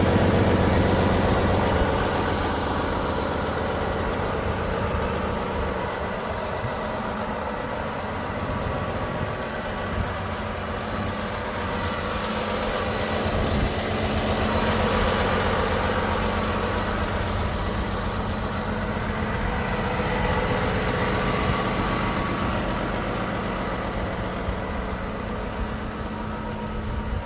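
Volvo FH 500 truck's 13-litre six-cylinder diesel engine idling steadily.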